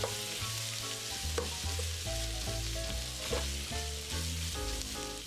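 Sliced smoked kielbasa, onion and minced garlic sizzling steadily as they fry in oil in a nonstick pot, stirred with a spatula; the garlic is being cooked briefly until aromatic.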